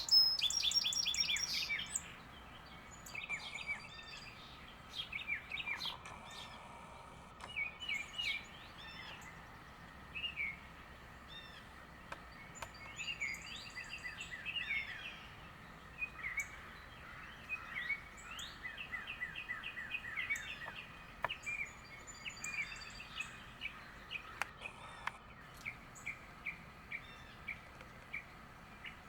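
Several small birds chirping and calling, starting with a loud, fast run of notes, then short repeated calls and chirps from different birds overlapping at intervals.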